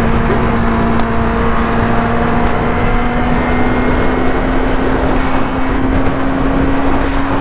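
Yamaha R6 inline-four sport-bike engine running at a steady high speed, its pitch creeping slowly upward, under loud rushing wind noise.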